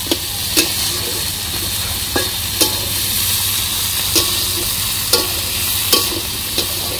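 Hilsa fish head frying with garlic and green chillies in a metal wok: a steady sizzle, with the metal spatula scraping and clinking against the pan every second or so as it is stirred.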